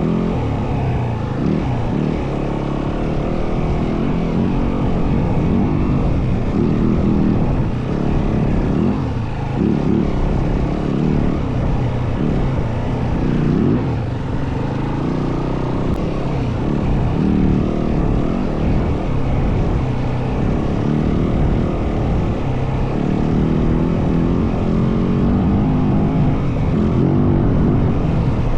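Yamaha WR450F dirt bike's single-cylinder four-stroke engine running under way, its revs rising and falling every few seconds.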